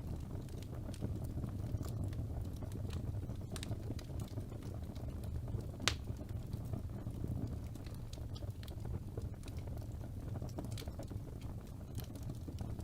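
Wood fire burning in a fireplace: a steady low rumble of flames with scattered small crackles and one sharper pop about six seconds in.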